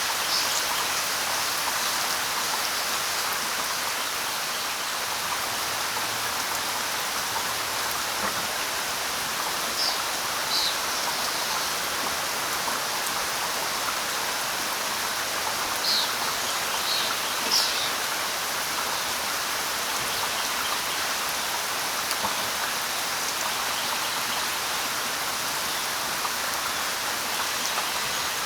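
Steady light rain falling on leaves in an even hiss. A few short, high bird chirps cut through it: a couple about a third of the way in and a small cluster just past the middle.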